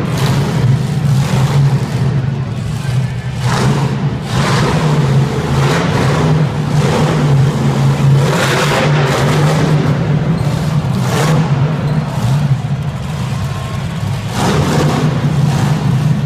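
Monster truck engine running loud over a steady low rumble, revving up again and again every second or two.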